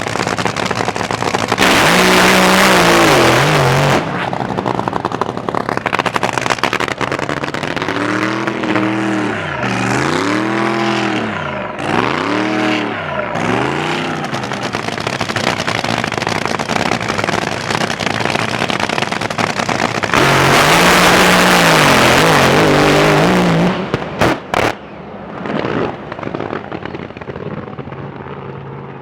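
Drag boat racing engines: a steady rumble broken by repeated rising-and-falling revs, and two very loud full-throttle runs, one near the start and one about two-thirds through. After the second run the noise drops away sharply.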